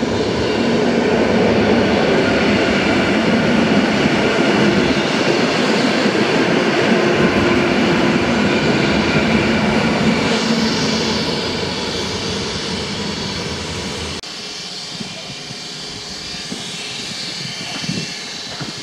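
EN57AKM electric multiple unit pulling into the platform and slowing: a loud, steady running noise of motors and wheels with a low hum, fading over the first ten seconds or so. About 14 s in it cuts to a quieter, steady station background.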